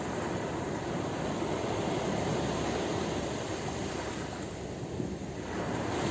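Ocean surf: a steady rush of breaking waves that swells and eases, with a louder surge near the end.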